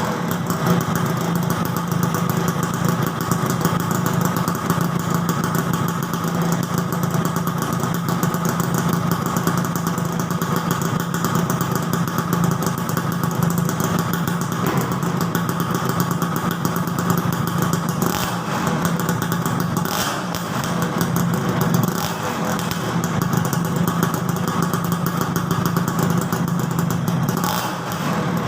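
Yamaha F1ZR two-stroke single-cylinder engine idling steadily through an aftermarket AHM exhaust, with a fast, even popping beat.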